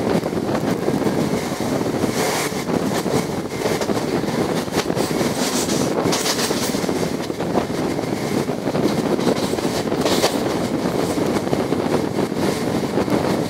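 Steady rumble of a moving train running along the track, with wind on the microphone and a few brief gusts of higher hiss.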